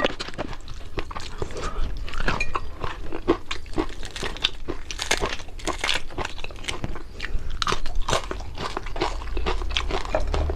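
A person chewing and biting into crispy fried fish close to the microphone: dense, irregular crunches and crackles.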